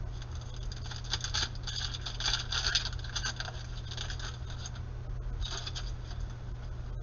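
Trading cards being handled, with dry scraping and rustling strokes as the cards slide against one another.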